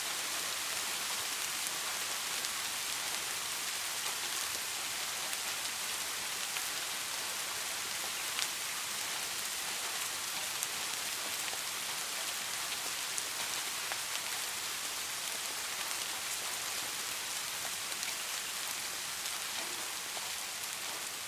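Steady rain: an even hiss of falling rain with scattered light drop ticks.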